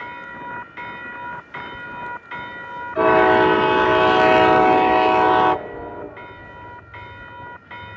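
Railroad crossing bell dinging steadily, about four strikes every three seconds. About three seconds in, a commuter rail locomotive's horn sounds one long chord blast of about two and a half seconds over it.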